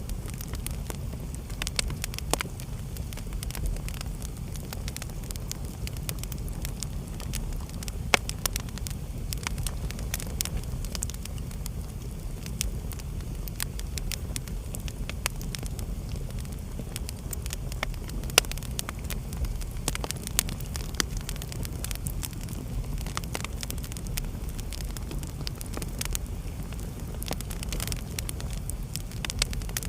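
Wood fire burning in a fireplace: a steady low rumble of the flames with frequent irregular crackles and pops, a few sharper pops standing out, one about eight seconds in and one near the middle.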